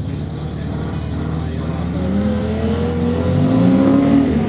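Race car engine on a dirt circuit, revving harder as the car comes closer, its pitch rising through the second half and dropping off sharply near the end.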